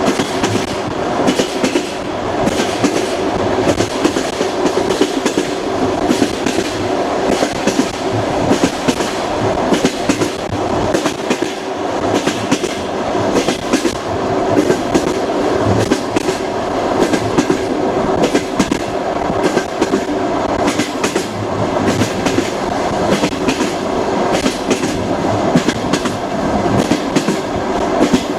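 Railway carriage wheels running steadily along the track: a continuous rumble broken by frequent clicks of the wheels over rail joints.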